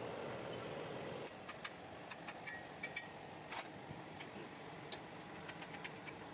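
Scattered light clicks and taps, one sharper than the rest about three and a half seconds in, over a steady background noise that drops away about a second in.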